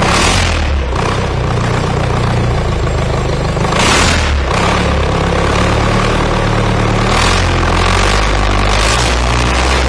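Freshly overhauled YTO 854 tractor diesel engine running on a test stand during its run-in, its speed shifting up and down a few times. A few short rushing whooshes sound over it, about four seconds in and again near the end.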